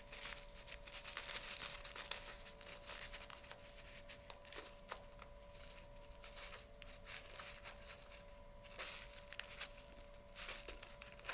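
Loose bird seed rustling and crackling on a plate as a cardboard toilet paper tube coated in seed butter is rolled through it, many small clicks of seeds shifting and sticking.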